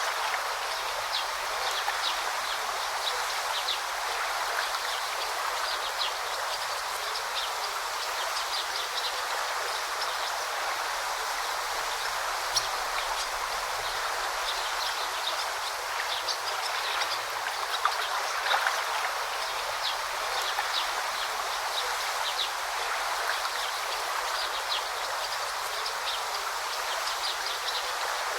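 A stream babbling steadily over rocks, with many short, high chirps of small birds throughout.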